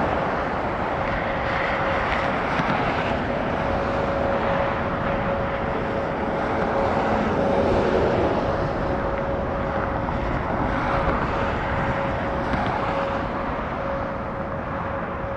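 Boeing KC-46A Pegasus tanker's two Pratt & Whitney PW4062 turbofan engines running steadily as the jet lands, a broad rushing roar with a steady whine in it, swelling a little midway.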